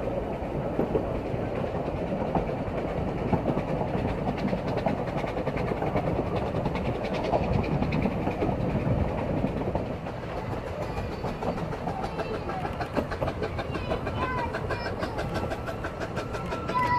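Narrow-gauge steam train heard from on board: the carriages run steadily over the track with a continuous rumble and wheel clatter.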